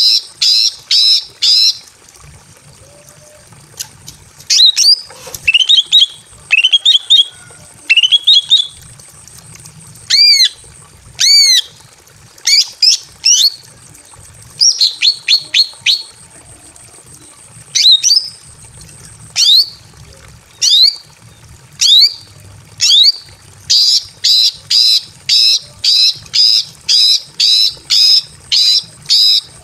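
Female green leafbird (cucak ijo) calling loudly in rapid runs of sharp, sliding notes, about four or five a second, with sparser, varied notes in between. It is the call a female in breeding condition gives to draw a male.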